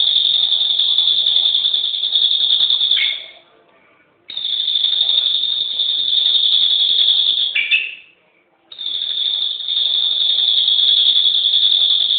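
A high-pitched, steady buzzing call repeated in long bouts of about four seconds each, with short pauses between them. Each bout ends with a brief drop in pitch. It is played as a master call for training songbirds.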